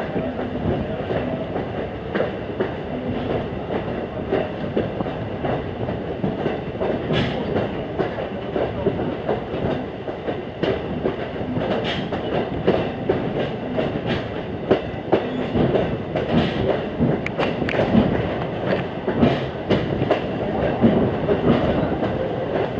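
Railroad passenger coach rolling along behind a steam locomotive, heard from on board: a steady rumble with the wheels clicking and clattering at irregular intervals over the rail joints.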